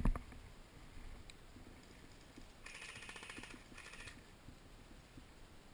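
A sharp knock at the very start, then two rapid rattling bursts of airsoft electric gun fire, about a second long and then a short one, from some way off.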